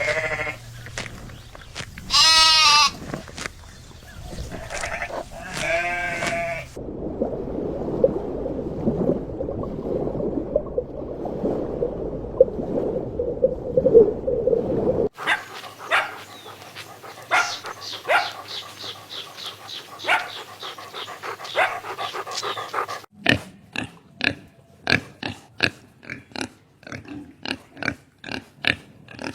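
A run of different farm animal sounds, one after another: a few loud wavering calls, then a stretch of steady low grunting, then many short sharp calls that settle into an even rhythm near the end.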